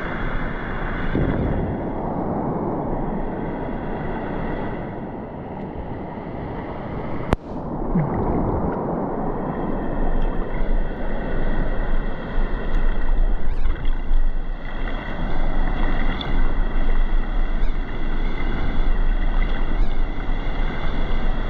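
Ocean water washing and sloshing around shoreline rocks, with wind buffeting the microphone. A single sharp click about seven seconds in, and the rush grows louder and rougher in the second half.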